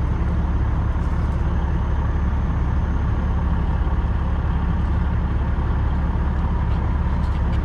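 Semi truck's diesel engine idling steadily: a constant low drone that does not change.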